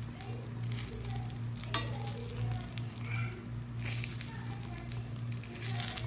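Rava dosa batter sizzling on a hot dosa pan as butter is spooned onto its edges, over a steady low hum, with one sharp click about two seconds in.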